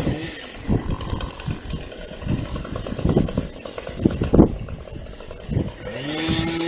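Chainsaw revving high, dropping back, then revving up again near the end. Several loud thumps in between.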